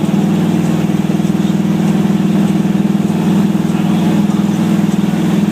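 Ford mud truck's 460 V8 running steadily while cruising on the highway, with no change in engine speed.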